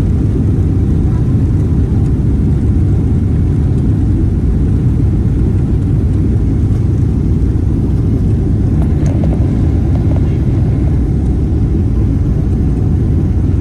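Steady low rumble inside the passenger cabin of a Boeing 777-300ER airliner: engine and airflow noise, even in level with no rise or fall.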